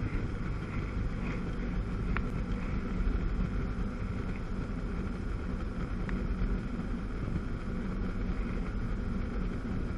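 Wind buffeting the microphone over a steady jet ski engine drone on the water.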